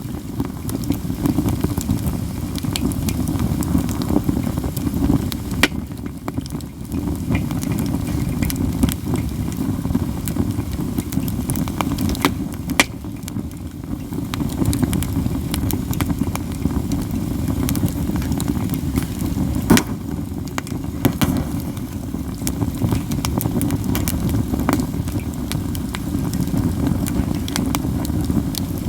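Katsura wood burning in an open fire: constant crackling with occasional loud, sharp pops, the two loudest about 13 and 20 seconds in, over a steady low rumble.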